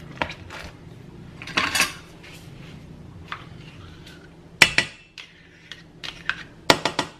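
Kitchen pots, pans and utensils clattering and clinking as cooking gear is handled at the stove, with a scrape about one and a half seconds in and sharp clinks about four and a half and seven seconds in, over a faint steady low hum.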